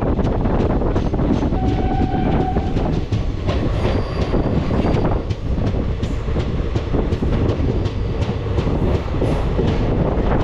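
Passenger train running, a steady heavy rumble with many rapid clacks of the wheels over the rail joints, and a brief steady tone about two seconds in.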